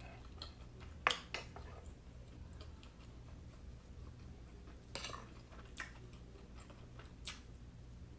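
Eating utensils clicking against a plate or dish: about five sharp clicks spread over several seconds, the loudest about a second in, over a faint steady hum.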